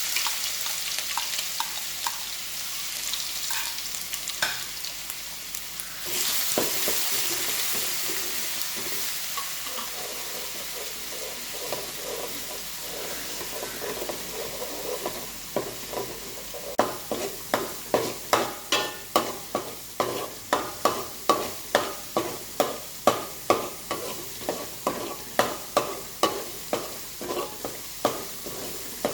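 Crushed ginger and garlic frying with fenugreek seeds in hot sesame oil in a pan, sizzling; the sizzle swells about six seconds in. From about halfway a spoon scrapes the pan in steady strokes, nearly two a second, stirring to keep the ginger from sticking to the bottom.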